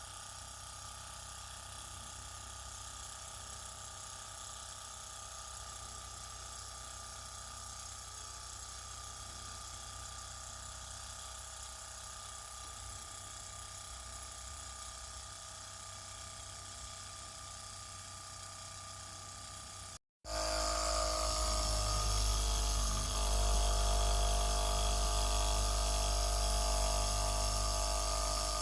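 Miniature Stirling hot-air engine running fast with a steady, high-pitched whirr. About twenty seconds in the sound breaks off for an instant and comes back louder, with a low hum underneath.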